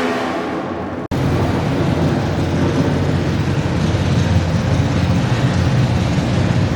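Modified garden tractor pulling engine running loud and rough. The sound drops out abruptly for an instant about a second in, then comes back as a dense, uneven low rumble.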